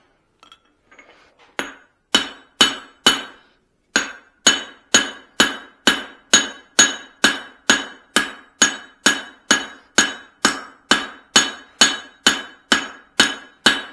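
Hand hammer blows on hot steel over an anvil, each with a bright metallic ring: three blows about two seconds in, a short pause, then a steady run of about two blows a second, drawing out a forged hammer head.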